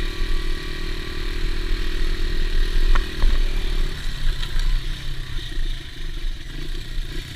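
Dirt bike engine running, holding a steady note that drops away about four seconds in, with a couple of brief clicks near three seconds in.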